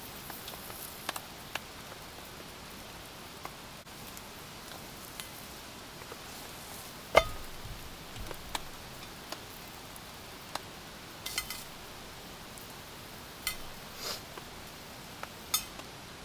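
Steady rain falling, with scattered sharp taps and clicks and one louder knock about seven seconds in.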